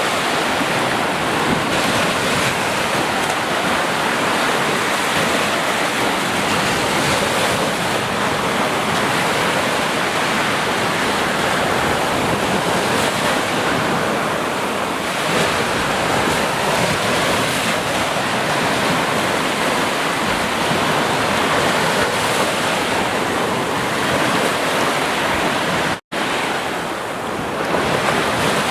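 Sea surf: a continuous wash of waves breaking and rolling in, steady throughout, with a momentary cut to silence about three seconds before the end.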